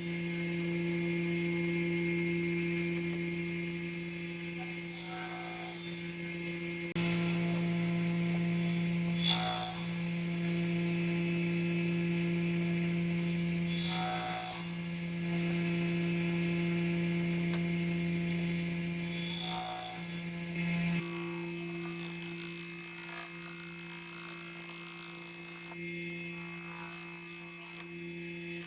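Steady electric motor hum, such as a workshop power tool running, with a short noisy stroke about every five seconds. The lower part of the hum falls away after about twenty seconds.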